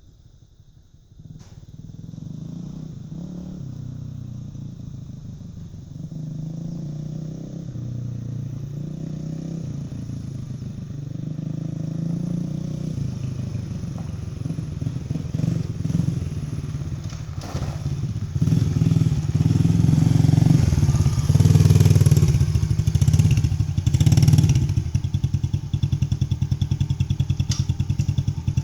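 Dirt bike engine running while being ridden, its pitch rising and falling with the throttle and growing louder through the second half, then cutting off suddenly near the end.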